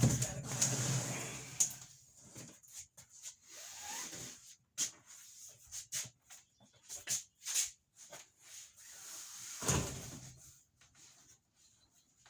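Scattered knocks, clunks and clicks as plastic water jugs and plumbing parts are handled and set in place, with heavier thuds at the start and about ten seconds in.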